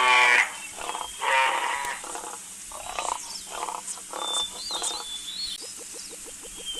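Animal calls: a few loud, harsh pitched calls at the start, then shorter repeated calls. Near the end comes an even, rapid pulsing of about six or seven beats a second, like a frog or insect chorus.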